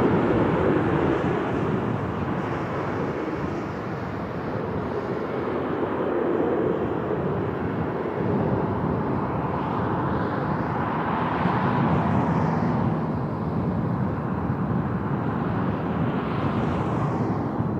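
Jet airliner engines running as the aircraft passes, a steady rush with wind buffeting the microphone. A higher hiss sweeps up and down twice in the second half.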